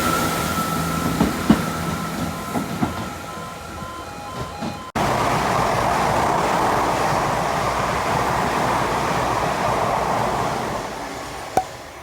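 Passing trains heard in two clips joined by a sudden cut. The first is a fading steady whine and hum with scattered clicks of wheels over rail joints. About five seconds in it gives way to a louder rush of wheel and rail noise that fades away near the end.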